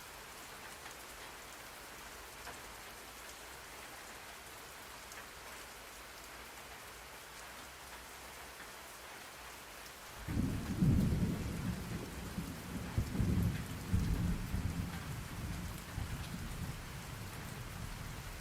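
Steady rain hissing; about ten seconds in, a roll of thunder sets in as a low rumble that swells in waves and slowly fades.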